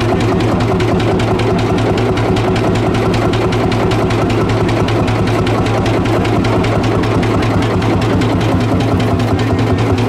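1956 Lanz tractor's single-cylinder two-stroke engine idling steadily, with an even beat of about eight firing strokes a second.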